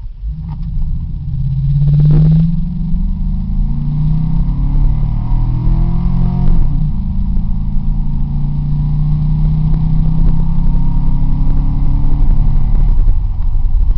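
2003 Chevrolet Tahoe's 5.3-litre V8 on its stock exhaust accelerating hard from a standstill, the engine pitch rising and then dropping at automatic upshifts about two and six and a half seconds in, then running steadily under load.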